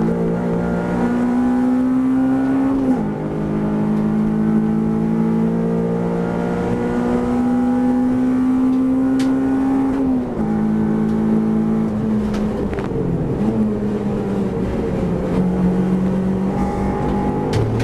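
Honda Civic race car's engine heard from inside the car, running hard under acceleration. Its pitch climbs steadily and drops sharply at upshifts about three seconds and ten seconds in. It falls away as the car brakes around twelve seconds in, then climbs again.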